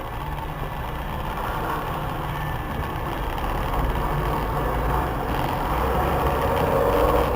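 Road traffic: a steady low engine rumble of heavy vehicles, growing gradually louder toward the end.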